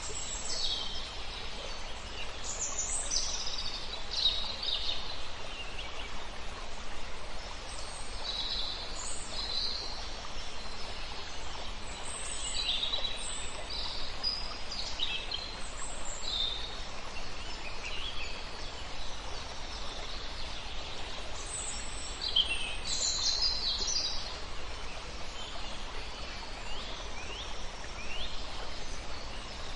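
Several songbirds singing and chirping in short phrases, calls overlapping from different birds, over a steady rush of flowing river water.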